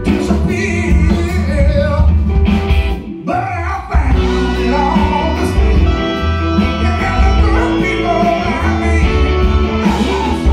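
A live band with guitar, drums and Hammond organ plays a blues-rock song while a woman sings lead. The band drops out briefly about three seconds in, then comes back in full.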